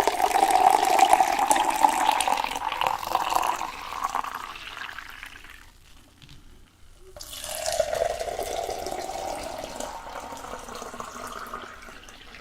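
Water streaming into a vessel in two long pours with a short pause between them; the second pour rises in pitch toward its end.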